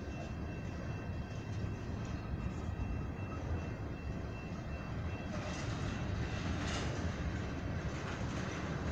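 Freight train of ethanol tank cars rolling past: a steady rumble of steel wheels on the rails, with a faint steady high-pitched ring through the first half.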